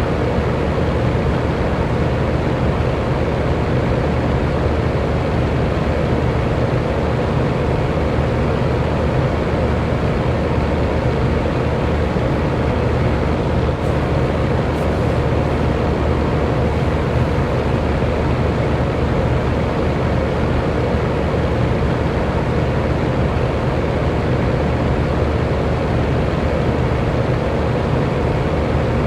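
Electric fan running steadily: an even, unchanging whoosh of moving air with a low steady hum from the motor.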